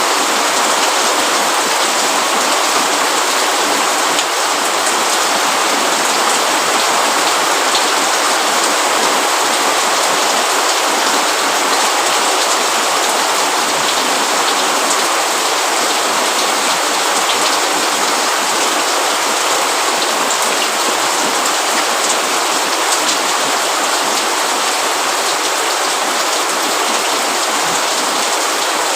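Steady, even rainfall with a dense patter of drops on surfaces, loud and unbroken throughout.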